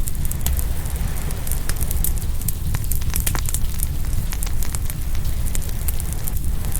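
Open wood fire crackling, with frequent sharp pops, over a steady low wash of ocean surf.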